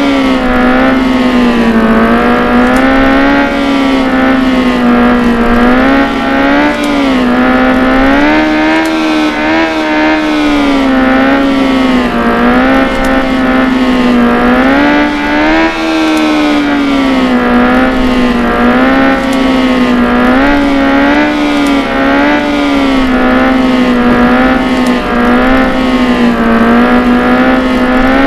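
Motorcycle engine held at high revs, its pitch wavering up and down unevenly as the throttle is worked.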